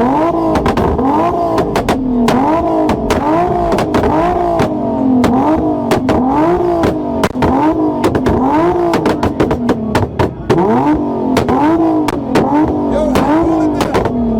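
Car engine held against a two-step launch rev limiter, its pitch climbing and dropping over and over, about one and a half times a second, with sharp exhaust pops and cracks throughout.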